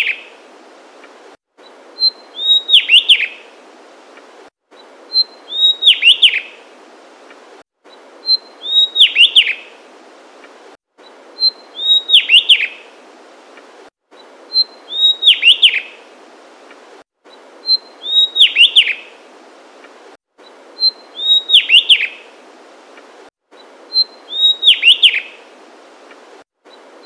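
Javan tesia singing: a short high note followed by a quick run of several notes sliding down in pitch, the same phrase repeated about every three seconds, eight times over.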